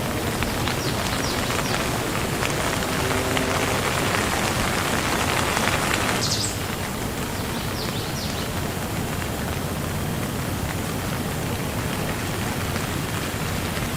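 Steady rain falling, an even hiss of drops that eases slightly about six and a half seconds in. A few short high chirps sound through it near the start and around the middle.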